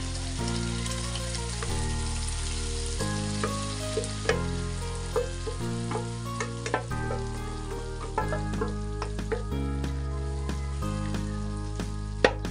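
Cooked mung beans poured into a hot wok of sautéed ground pork, sizzling as they hit the pan. From about four seconds in, a wooden spoon stirring and clicking against the wok, over background music with steady changing chords.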